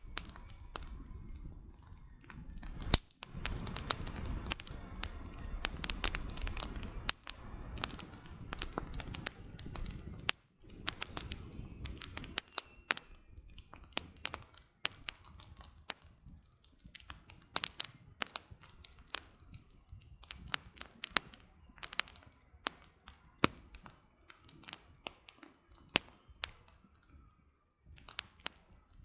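Wood campfire crackling, with many irregular sharp snaps and pops of burning firewood. A low rushing of the flames is stronger through the first third.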